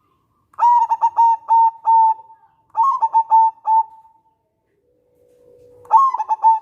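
Zebra dove (local perkutut) cooing: three phrases of quick, clipped coos, each a run of short notes, about two to three seconds apart. The third phrase opens with a faint, lower drawn note.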